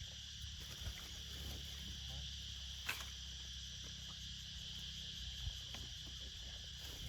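Steady high-pitched chorus of night insects, with a few short sharp clicks, the loudest about three seconds in and another about five and a half seconds in.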